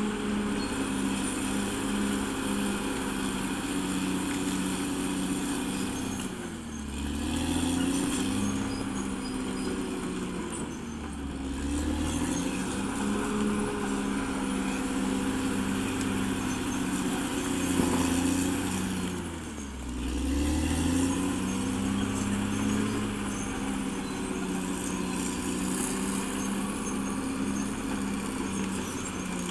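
Diesel engine of a CAT D6R XL crawler bulldozer running steadily under working load. Its pitch sags and recovers three times, about six, eleven and twenty seconds in, as the engine takes heavier load and then picks back up.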